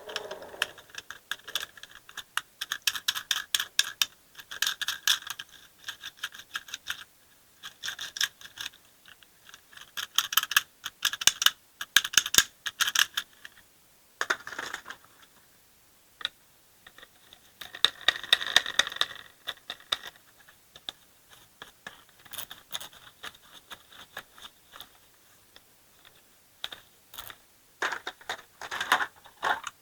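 Small hard pieces rattling and clattering against a plastic toy dump truck, in bursts of rapid clicks lasting a few seconds each with short pauses between.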